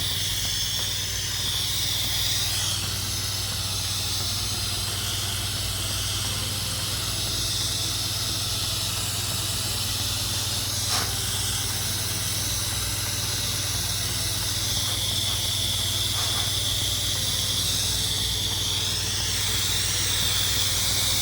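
Pressure washer wand spraying house-wash soap mix through a downstream injector: a steady hiss of spray that wavers slightly, over the steady low hum of the pressure washer's engine. One brief click about halfway through.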